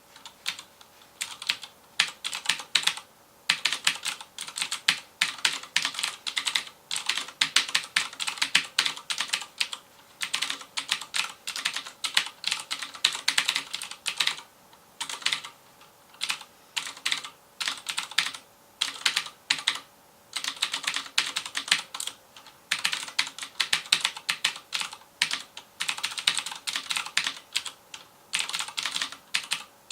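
Fast continuous typing on a FILCO Majestouch Convertible 2 mechanical keyboard with Cherry MX Blue switches: rapid sharp clicky keystrokes in bursts, broken by brief pauses every few seconds.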